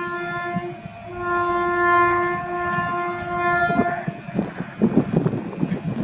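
An Indian Railways locomotive's horn sounds on one steady pitch, breaks off briefly about a second in and sounds again for about three seconds. About four seconds in, the train rushes past with rumble and wheel clatter.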